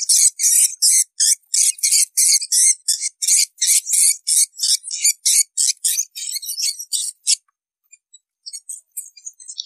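Recorded edible-nest swiftlet calls used as a swiftlet-farming lure: a fast run of short, high chirps, about three to four a second, that breaks off near the end. A few faint chirps follow, then a denser run begins.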